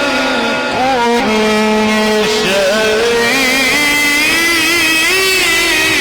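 A male Quran reciter's voice drawing out long, ornamented melodic notes, the wavering melisma of tajweed-style recitation (mujawwad) sung without clear words.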